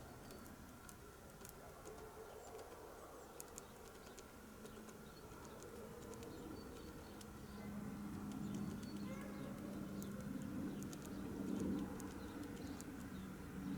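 Blue tit pecking at sunflower seed: sharp, irregular taps of its beak. A low hum rises in the second half.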